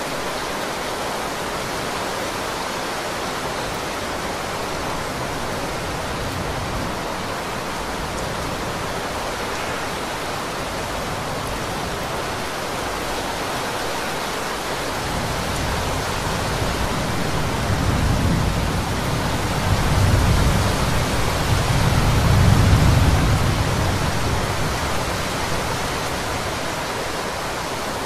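Heavy rain falling in a steady, dense hiss. A little past halfway a deep rumble of thunder builds, swells to its loudest about four-fifths of the way through, and dies away before the end.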